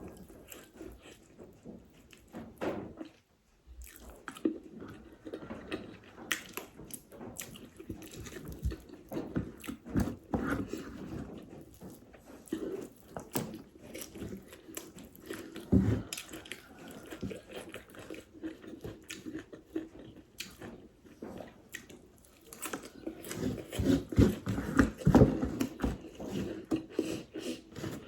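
Close-miked eating sounds: a person chewing a meal of rice and smoked fish curry, with many short mouth clicks and wet chewing noises. It pauses briefly a few seconds in and gets louder and busier near the end.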